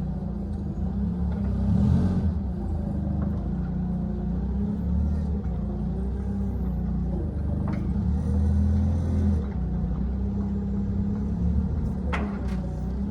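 Nissan forklift engine running, its level rising and falling as it works. A short knock comes near eight seconds and a sharper one about twelve seconds in.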